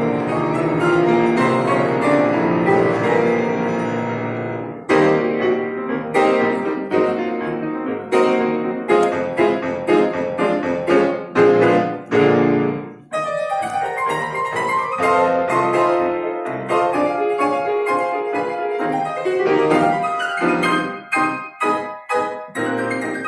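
Piano duet playing a lively piece: a chord rings and dies away over the first few seconds, then quick runs and chords follow, with a brief break about 13 seconds in and short, detached notes near the end.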